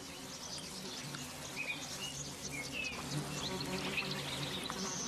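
Wild birds giving several short chirps over a steady high hiss of insects, with a low steady drone underneath.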